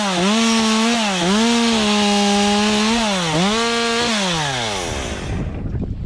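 Stihl MS 201 two-stroke chainsaw running at full throttle, cutting wood, its pitch dipping briefly three times as the chain bites in. About four seconds in the throttle is released and the engine winds down.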